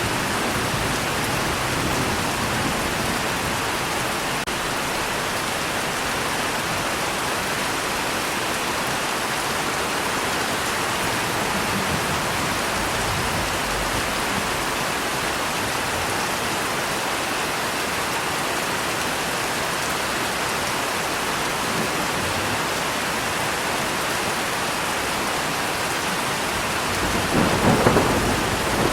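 Steady rain falling, a dense even hiss, with a rumble of thunder rolling in near the end.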